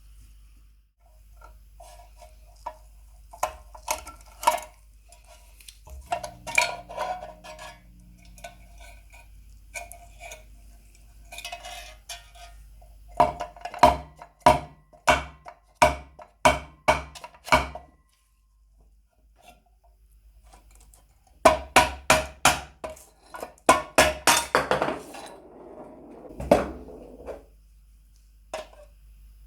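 Metal clinking and tapping, with two runs of sharp ringing strikes, about two a second, in the middle and near the end.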